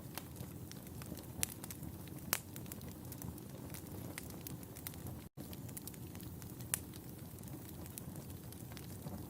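Wood fire crackling in a fireplace: a steady low rumble of burning with scattered sharp pops and snaps, a few standing out louder. The sound drops out for an instant about five seconds in.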